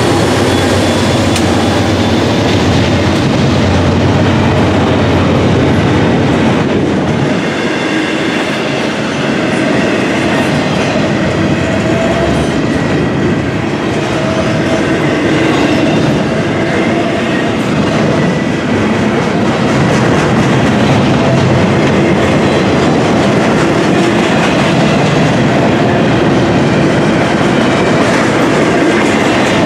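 Intermodal container freight cars rolling steadily past, the wheels clattering over the rail joints, with thin steady squealing tones from the wheels on the rail.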